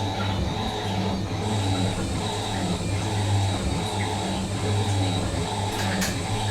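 Fisher & Paykel MW512 washing machine running with a steady low motor hum; a faint high whine joins about a second and a half in, and there is a brief click near the end.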